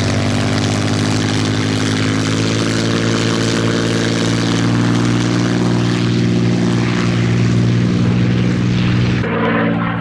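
Supermarine Spitfire's V12 piston engine running in flight, a steady propeller drone. Near the end the sound changes abruptly and loses its high hiss.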